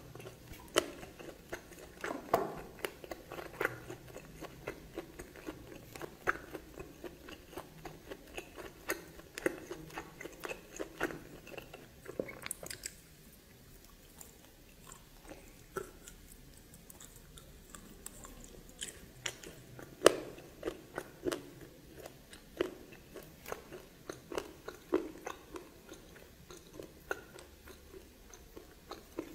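A person chewing and biting into steamed snake, making many short wet clicks and crunches. The chewing thins out for a few seconds a little before the middle, and the loudest crunch comes about two-thirds of the way through.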